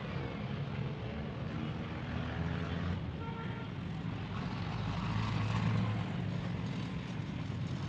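Small two-stroke chainsaw engine running steadily with a fast, even pulsing, a little louder for a moment about five seconds in.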